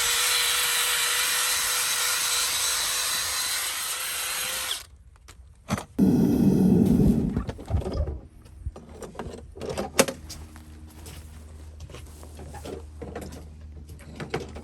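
A power tool's motor runs steadily with a constant whine and cuts off suddenly about five seconds in. A loud rough burst follows about a second later, then scattered sharp knocks and clicks of hand work.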